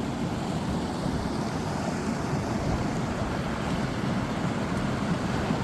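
A brook's water rushing over rocks: a steady, even rush.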